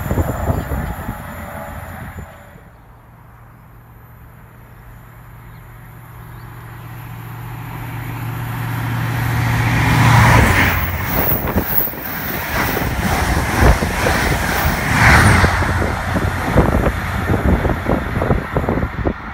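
Class 43 HST (InterCity 125) power car approaching at speed, its diesel engine drone growing louder until it passes about ten seconds in, then the rush and rapid clatter of the coaches' wheels on the rails. The rumble of the train before fades out in the first two seconds.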